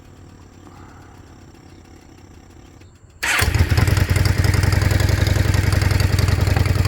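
A 2008 Yamaha V-Star 650's V-twin engine starts suddenly about three seconds in and settles into a steady idle. One of its mufflers has been removed, so one cylinder exhausts through an open pipe; it is a little louder than stock.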